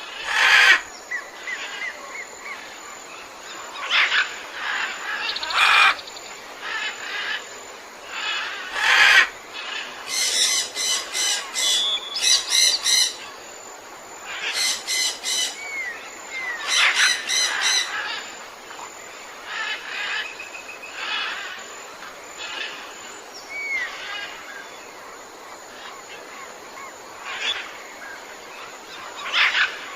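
A chorus of jungle birds calling over a steady background hiss. Several kinds of call overlap: loud harsh single calls, runs of rapid repeated notes in the middle, and a few short rising whistles.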